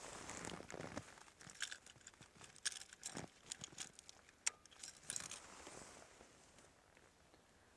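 Rustling with a scatter of small sharp clicks and taps, as of something being handled, easing off over the last couple of seconds.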